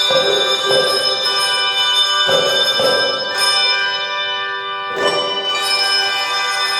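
Instrumental music with ringing bell tones. New chords are struck near the start, at about two and a half seconds and about five seconds in, each ringing on between strikes.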